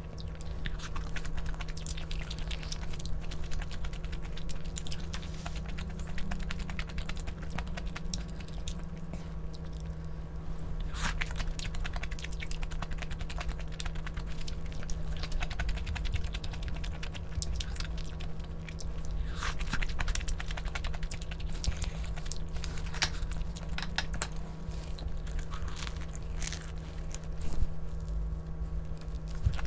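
Close-up chewing and biting of food, with a few crisp, crunchy bites now and then over a steady low hum.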